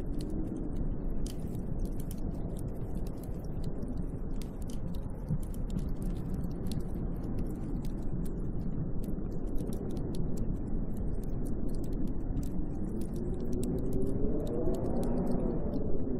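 Snowstorm wind blowing with a steady low rush, sprinkled with many faint ticks. Near the end a gust builds into a whistling howl that rises and then falls in pitch.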